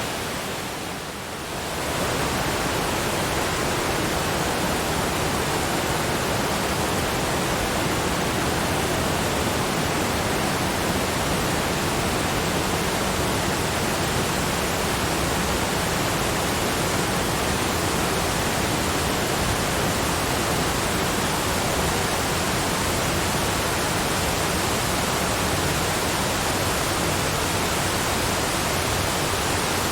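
Steady rushing roar of a waterfall, an even hiss spread from low to high, dipping briefly in level about a second in.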